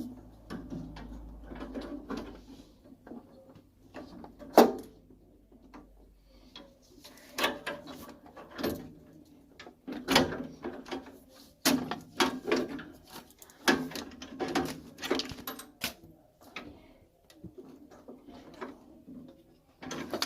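Irregular clicks, knocks and clatter of tools and metal parts being handled during boiler repair work, with one sharp knock a few seconds in.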